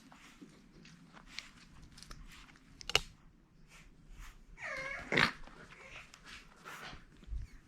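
French Bulldog puppy mouthing and chewing, with small clicks and one sharp click. About halfway through it gives a short high whine.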